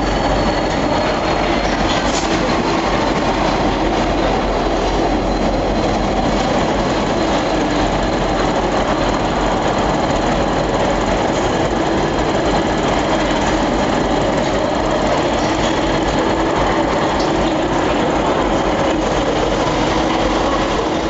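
Train running at a large railway station: a steady, dense rumble and rattle, with a thin high whine that slides down in pitch over the first couple of seconds and then holds.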